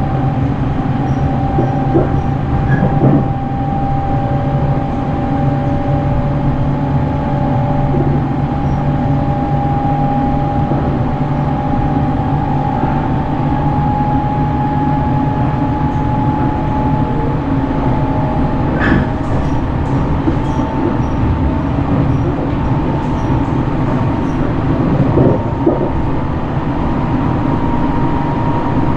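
Sunrise Izumo sleeper train, a 285 series electric unit, running at speed as heard from inside the carriage: a steady rumble with a whine that slowly rises in pitch, and a few knocks along the way.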